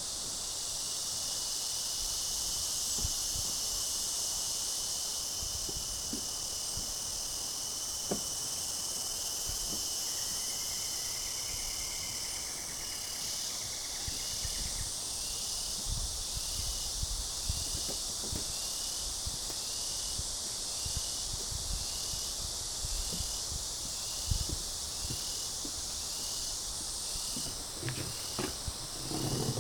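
Summer insects calling: a steady high-pitched buzz. From about halfway through it is joined by a short chirp repeating about once a second, with a few faint scattered knocks underneath.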